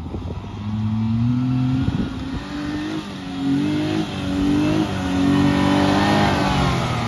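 Tata Tigor i-CNG's three-cylinder petrol/CNG engine revving hard in repeated rising surges as the car claws up a steep slope of loose sand, growing louder as it approaches and peaking a little over halfway through.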